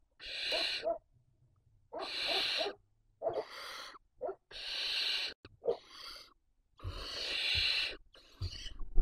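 Barn owl chicks giving a run of hissing calls in the nest, about eight rasping hisses of up to a second each with short pauses between them.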